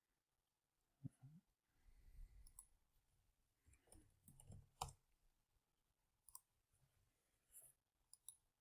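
Faint computer mouse clicks, scattered and irregular, about eight over several seconds, against near-silent room tone.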